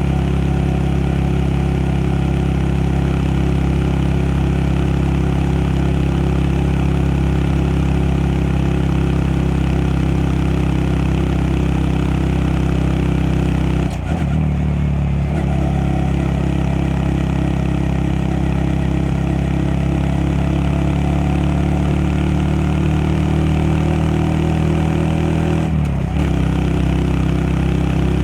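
Honda Monkey 125's single-cylinder four-stroke engine running steadily. Its sound dips briefly about halfway through and again near the end, then carries on at a slightly changed pitch.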